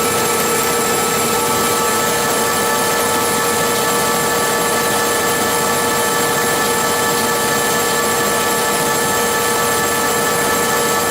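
Helicopter in flight: a loud, steady engine and rotor drone with several steady whining tones, unchanging throughout.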